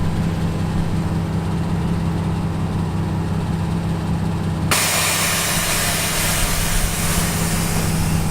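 Car engine idling steadily. About halfway through, a loud steady hiss starts and runs on over it.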